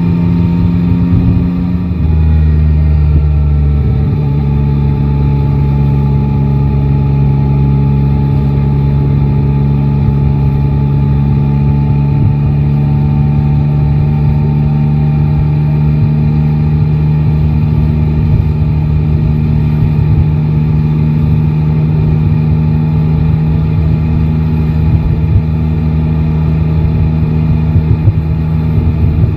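Yamaha Tracer 9 GT's 890 cc inline-triple engine running under way. Its note drops about two seconds in, then holds a steady drone at an even speed.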